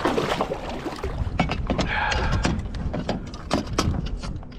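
Irregular knocks, clicks and scrapes of handling on a fishing kayak, over a steady low wind rumble on the microphone.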